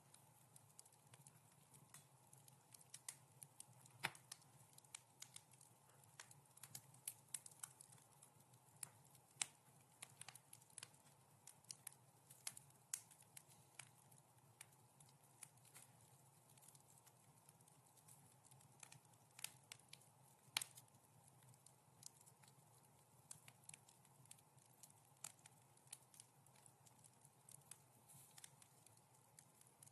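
Wood fire crackling in a fireplace: soft, irregular pops and snaps, a few a second, over a faint low steady hum.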